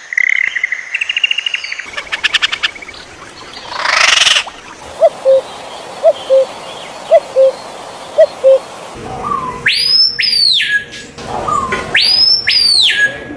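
Several different birds calling in turn. First comes a rapid high trill, then a low two-note call repeated four times. Near the end there are two loud whistled calls that sweep steeply up and fall back down.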